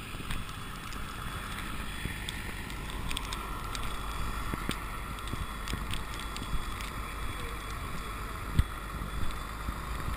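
Blizzard wind blowing against the microphone as a steady, rumbling rush, with scattered faint clicks and one sharper tick near the end.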